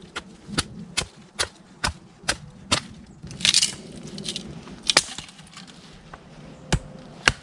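Wooden baton striking the spine of a small 440C-steel Walther BNK 6 knife, driving the blade into wood: sharp knocks about two a second for the first three seconds, a short rasping burst midway, then three more spaced strikes.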